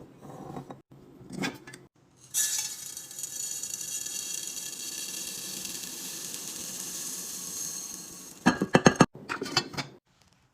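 A steady pour into a glass container for about six seconds, a hissing rattle with a faint glassy ring, followed by a quick run of sharp clinks.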